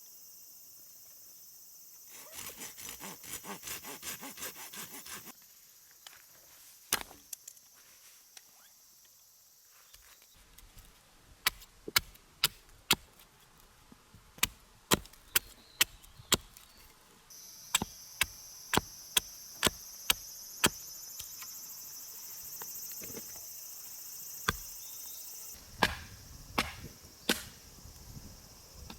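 Sharp chopping strokes on wood, about two a second, repeating for several seconds at a time, with insects buzzing high-pitched.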